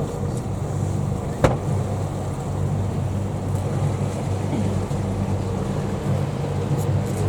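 Tour boat's engine running steadily with a low drone. A single sharp knock sounds about a second and a half in.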